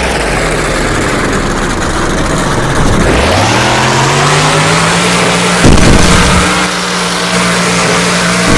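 Monster truck's motor running: its pitch drops about three seconds in, then rises over a couple of seconds to a steady tone and holds. A sharp knock comes near the middle.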